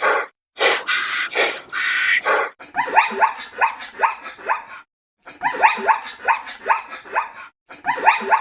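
A canid yapping and barking: two harsh, rasping calls in the first couple of seconds, then three runs of quick, short yaps, about four or five a second, with brief pauses between the runs.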